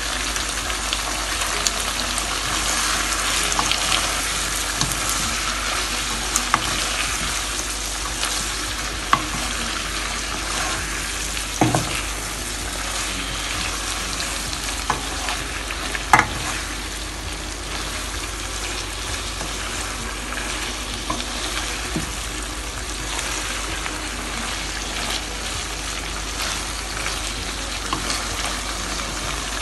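Ackee, saltfish, onions and bell peppers sizzling in oil in a frying pan while a wooden spoon stirs them, a steady hiss with a couple of sharp knocks about twelve and sixteen seconds in.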